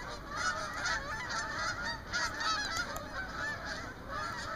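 A flock of Canada geese honking as they fly over, with many calls overlapping.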